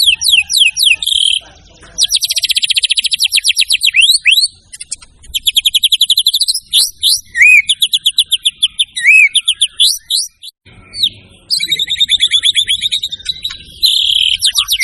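White-rumped shama (murai batu) singing loudly. It delivers phrases of rapid, rattling trills of repeated notes, broken by short pauses, with a couple of brief slurred whistles in the middle.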